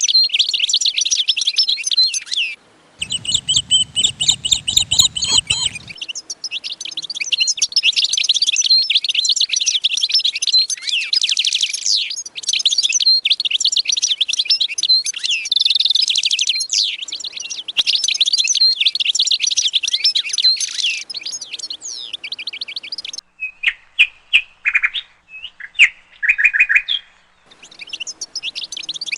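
A flock of small cage birds chirping and warbling in a dense, rapid chatter. About three seconds in a low hum runs under the song for a few seconds, and near the end the chatter thins to a handful of separate calls before the full chorus resumes.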